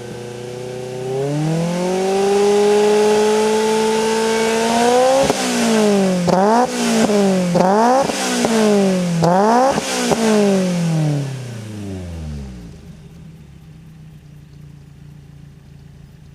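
Toyota AE86 with a swapped AE111 20-valve 4A-GE inline-four, exhaling through an Arqray semi-stainless muffler (60 mm main pipe, 75 mm tip). From idle the revs rise about a second in and are held for a few seconds. Then come about five quick, sharp throttle blips, and around twelve seconds in the engine drops back to a steady idle.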